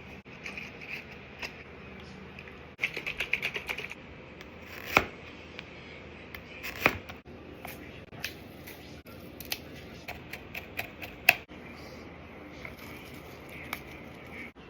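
Kitchen prep sounds: a quick run of light taps about three seconds in, then scattered clicks and three sharp knocks, the loudest about five, seven and eleven seconds in.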